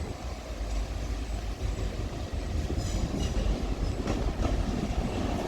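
A TransPennine Express Class 185 diesel multiple unit pair running into the station, with a steady rumble of engines and wheels on rails that grows slowly louder as it approaches.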